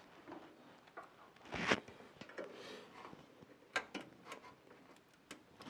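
Faint plastic clicks, knocks and a brief scrape as a 24-pin ATX power connector is worked and pushed into its motherboard socket, needing a little force.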